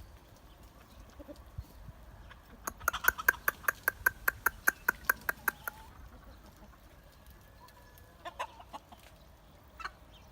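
Village chickens clucking: a quick, even run of sharp clucks, about seven a second, lasting some three seconds, then a few more scattered clucks near the end.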